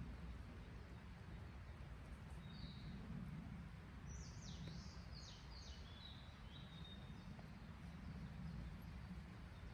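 A small songbird calling once, then singing a short phrase of quick downward-sweeping high notes that ends in a brief trill, over a faint low steady rumble.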